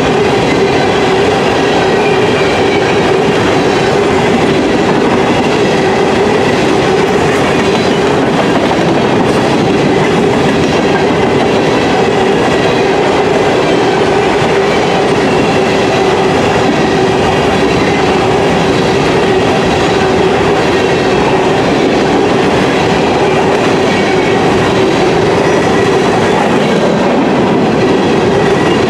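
Covered hopper cars of a loaded grain train rolling past close by: steady, loud noise of steel wheels running on the rails.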